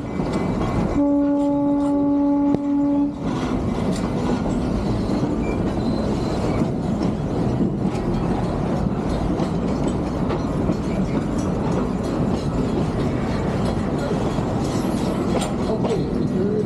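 A train running on the rails with a steady rumble and rattle. About a second in, the train sounds one held horn note that lasts about two seconds.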